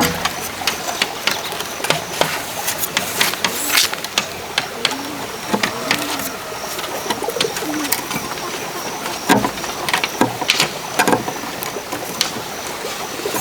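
A dove cooing a few soft, low calls in the middle, among frequent sharp knocks and taps.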